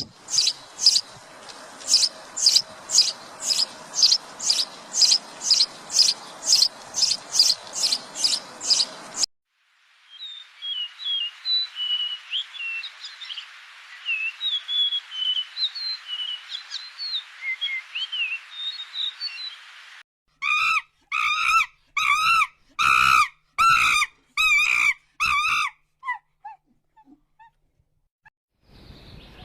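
A series of bird and animal calls: first high chirps repeated evenly about twice a second, then many small birds twittering together, then loud pitched calls about twice a second, fading to a few faint ones near the end.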